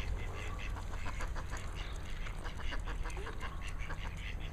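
A group of ducks quacking over one another, many short overlapping calls, with a steady low rumble underneath.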